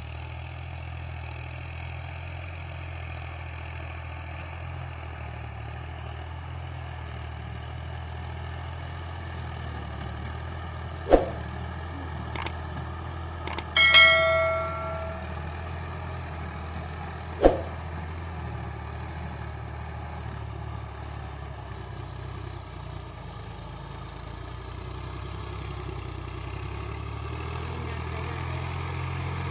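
Al-Ghazi tractor's diesel engine running steadily at low revs. About a third of the way in there is a sharp knock, then a few clicks and a ringing metallic clang that dies away over about a second, and another sharp knock a few seconds later.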